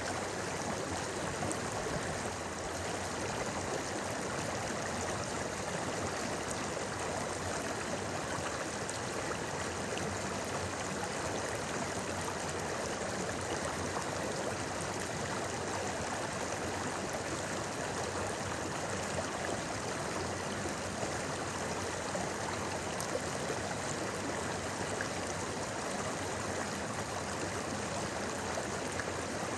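A clear, shallow river or stream flowing steadily over stones, a continuous babbling rush of water.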